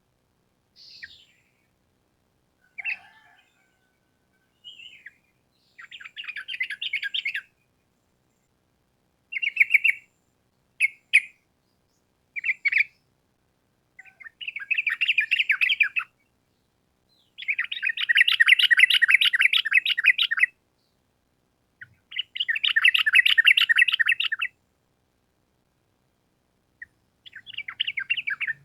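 Yellow-vented bulbul (trucukan) singing. A few short calls come first, then repeated bursts of fast trilled notes; the longest lasts about three seconds.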